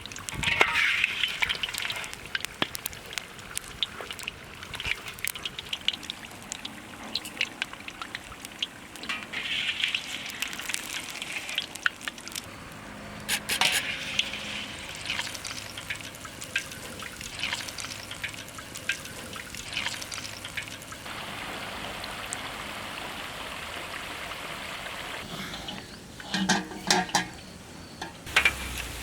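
Food cooking in a pan: a steady sizzling hiss with scattered sharp clicks, the hiss growing steadier and fuller near the end.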